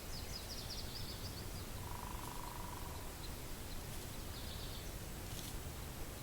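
Wind blowing steadily over the microphone, with small birds calling: a quick high trill at the start, a lower buzzy note about two seconds in, and another short high trill about four seconds in.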